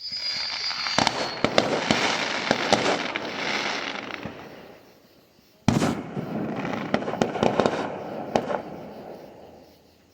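Fireworks going off. A whistle falling in pitch fades out in the first second or so over a dense crackle of many sharp pops, which dies away over about four seconds. A sudden bang a little past halfway starts another crackling spell that fades out near the end.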